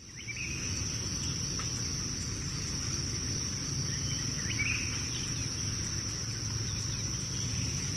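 Crickets trilling in a continuous high, steady chorus over a low background rumble, with a few faint chirps about halfway through.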